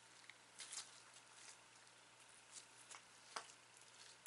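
Slime with small clay bits being squished and stretched by hand, giving a few faint, scattered wet pops and crackles.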